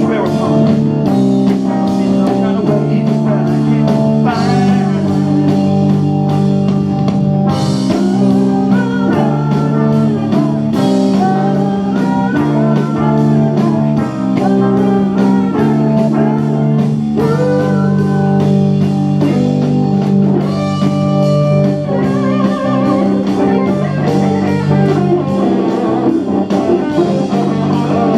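Live band playing an instrumental blues-rock passage: a guitar lead with wavering, bent notes over held chords and a drum kit.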